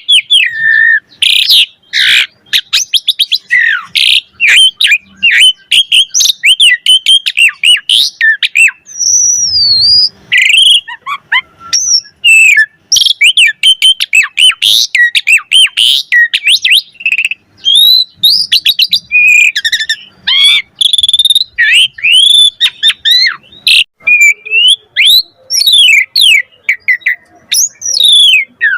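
Asian pied starling singing energetically and almost without pause: a fast, varied run of whistles, slurred notes, chirps and clicks.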